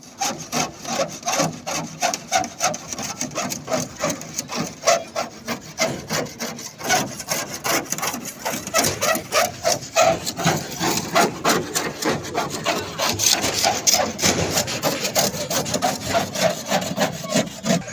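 Rapid, rhythmic rubbing strokes against a boat's surface, several a second and kept up steadily, as in preparing or painting the hull by hand.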